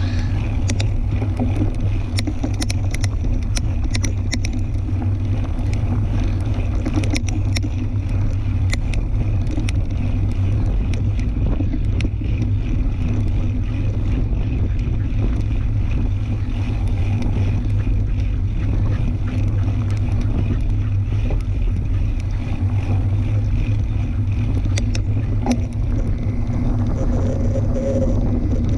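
Steady rushing noise from riding a fat-tyre tandem mountain bike along a dirt trail: wind on the microphone and tyre rumble, with scattered small clicks and rattles from the bike and trail.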